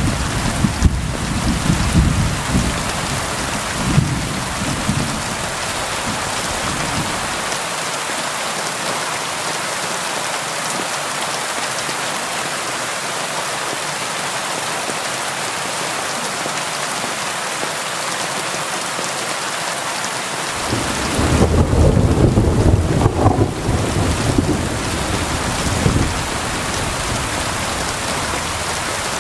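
Steady rain against a window, a continuous even hiss. Thunder rumbles low under it, dying away over the first several seconds and rolling in again about three quarters of the way through.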